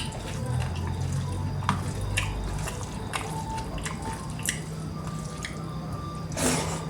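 Close-miked eating: wet mouth clicks and chewing sounds, irregular, a few a second, with a short noisy burst near the end.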